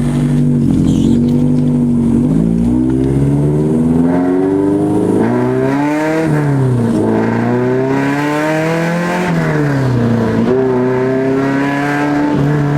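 Honda B20 four-cylinder engine accelerating through the gears: the pitch climbs for a few seconds, drops at a gear change about six and a half seconds in, climbs again and drops at another shift near ten seconds, then holds steady.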